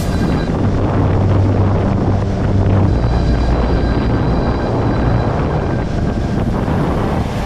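Kymco 50 cc two-stroke scooter engine running while riding, with wind buffeting the microphone; the engine note drops about three seconds in.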